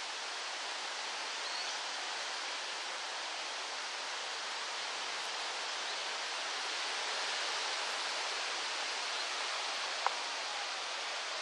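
Steady rustle of a breeze through trees, with one sharp click about ten seconds in.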